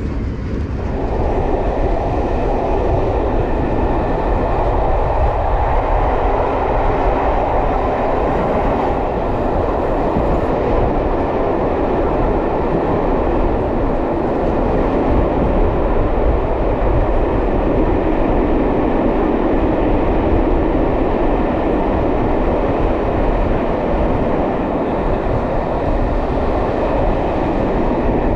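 Steady running noise of a steam-hauled passenger train heard from inside a coach: wheels rolling on the rails in an even rush with no distinct beat. It grows louder about a second in.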